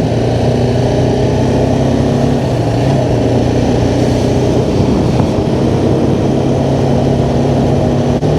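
BMW G310R's single-cylinder engine running steadily under way, its pitch shifting about three seconds in and wavering briefly around five seconds, over a rush of wind and road noise.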